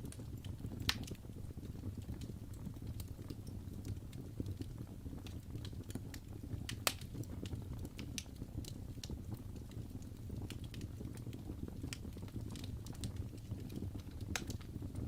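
Wood fire in a fireplace crackling, with irregular sharp pops over a steady low rumble of the flames; the loudest pops come about a second in and near the middle.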